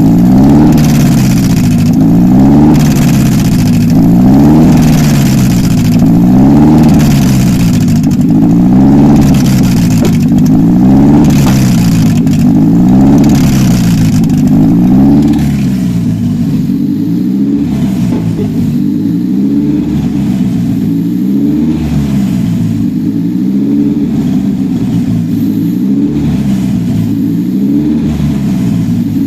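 Mazda PE-VPS 2.0-litre four-cylinder petrol engine running on a test stand, revved up and down over and over, about once every two seconds. About halfway through it becomes quieter and duller, the revs still rising and falling.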